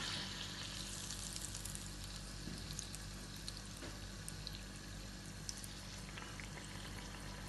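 A ball of yeasted dough for luqaimat (Arabic sweet dumplings) sizzling as it deep-fries in hot oil, a steady faint hiss with scattered small pops.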